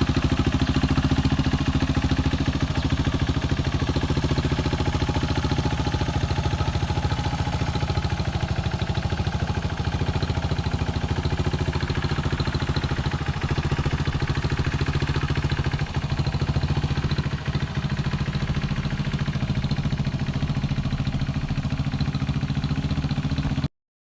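1978 Honda XL250S single-cylinder four-stroke engine idling steadily, cutting off suddenly near the end.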